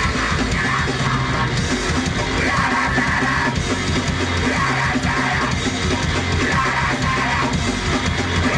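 Live heavy metal band playing a loud song: guitar and drum kit with yelled vocals.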